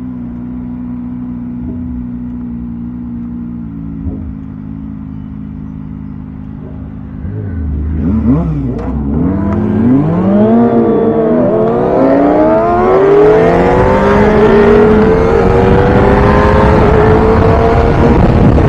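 Kawasaki ZX-25R 249 cc inline-four through a Villain R11 exhaust, running steadily at low revs, then revving and accelerating from about seven seconds in. Its pitch climbs and drops back several times as it pulls through the gears, and it grows louder and higher toward the end.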